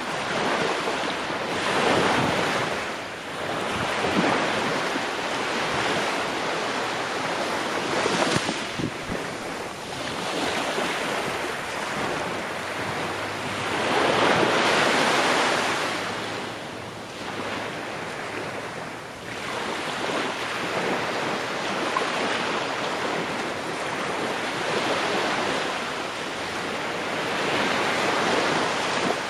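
Ocean waves breaking and washing on the shore, the surf rising and falling in swells every few seconds, with one larger wave about halfway through.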